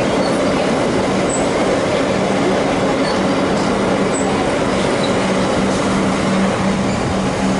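Siemens Nexas electric suburban train running past the platform: a steady rumble of wheels on rail, with a low hum held throughout that grows stronger in the second half.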